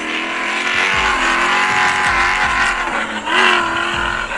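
Monster truck engine revving hard, its pitch climbing and then held high, with a brief dip and a fresh surge about three seconds in.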